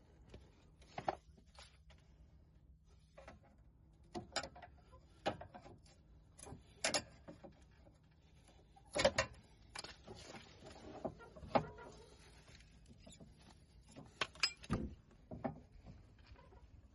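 Irregular sharp clicks and knocks, a dozen or so scattered unevenly, the loudest about nine seconds in, typical of tools and small metal parts being handled during hands-on repair work.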